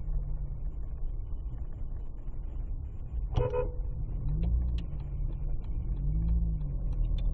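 Car engine and road rumble, the engine pitch rising and falling a few times, with one short car horn toot about three and a half seconds in.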